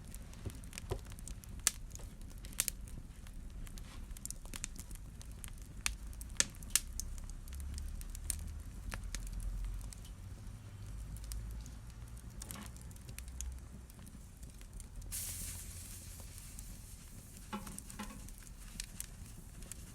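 Wood fire burning in a fireplace: flames rumble low under scattered sharp pops and crackles. About fifteen seconds in, a hiss starts suddenly and runs for a few seconds.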